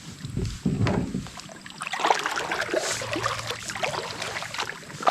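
Water splashing and sloshing in small, irregular bursts, after a low rumble in the first second.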